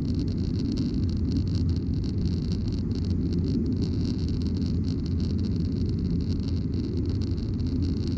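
Steady cabin noise of a Boeing 737-900ER in the climb after takeoff: a low rumble from its CFM56 engines and the airflow, with a steady hiss on top.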